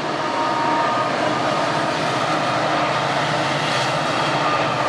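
Norfolk Southern diesel freight locomotives crossing a steel girder railway bridge: a steady rumble of engines and wheels on the rails, growing a little louder about a second in as they come onto the bridge.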